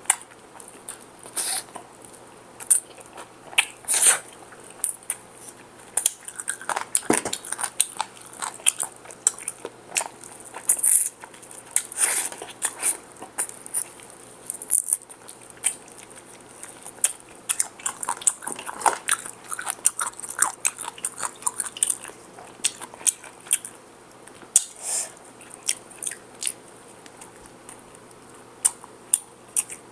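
Close-miked crunching and chewing of crispy fried chicken: irregular sharp, crisp crackles of the batter breaking between bites and chews.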